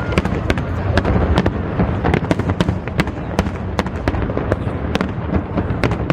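Aerial fireworks going off in quick succession: many sharp crackles and pops over a continuous deep rumble of shell bursts echoing across the harbour.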